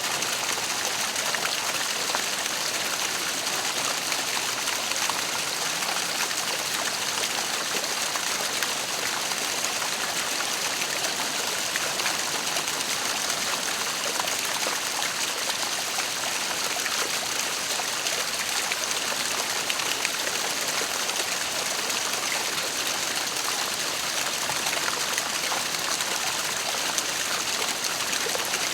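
Waterfall: a steady, unbroken rush and splash of falling water.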